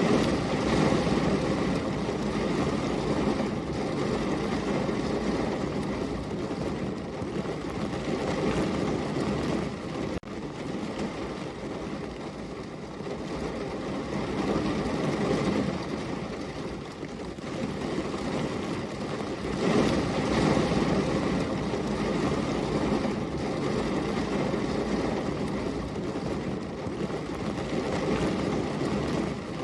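Heavy rain falling steadily, a dense even rush that swells and eases every few seconds.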